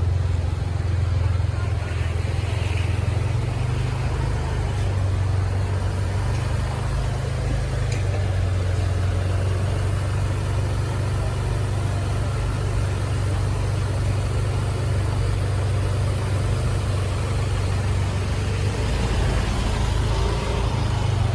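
A motor vehicle's engine running steadily, a low drone that shifts slightly in pitch a couple of times.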